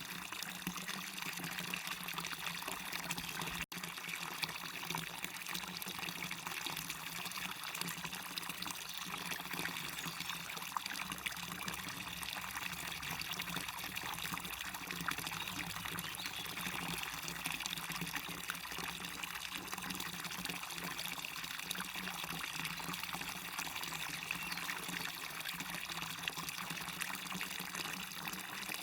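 Small waterfall: water pouring and splashing in a steady, unbroken rush, with a split-second break in the sound about four seconds in.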